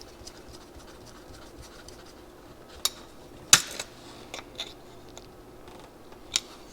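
Small metal carburetor parts being handled, giving a handful of sharp light clicks and taps, the loudest about three and a half seconds in, over a faint steady hum.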